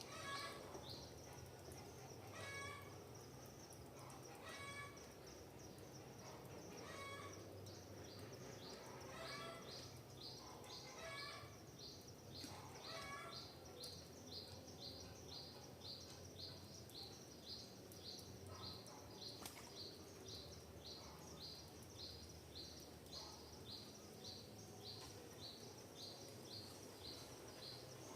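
Faint forest birdsong: a high, quick chirp repeated about twice a second throughout. Over the first half, a lower call repeats every couple of seconds and then stops. Under it runs a steady low background hum.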